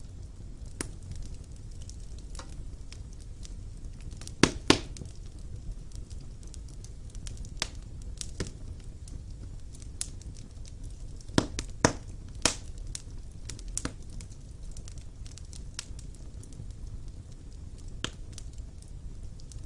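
Wood fire burning in a stone fireplace: a steady low rumble of the flames with irregular sharp crackles and pops, a few louder pops about four and a half seconds in and again around eleven to twelve seconds in.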